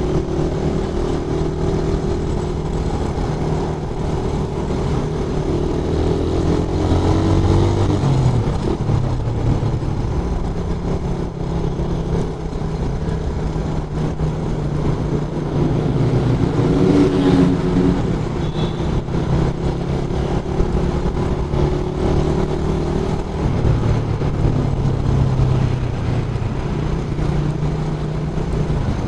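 Suzuki Raider 150 carburettor model's single-cylinder four-stroke engine running while riding, its pitch rising and falling a few times as the throttle is opened and eased.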